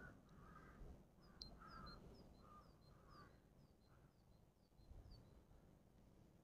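Faint wild birds calling: a run of short harsh calls in the first four seconds, overlapped by a series of short, high, falling notes from about one to five seconds in.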